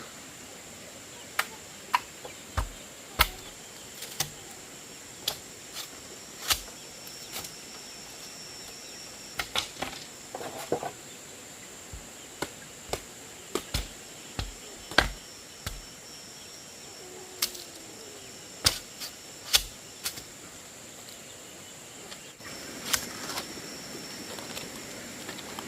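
Bamboo being chopped, with sharp, irregular knocks about one every second or two, over a steady high-pitched insect drone.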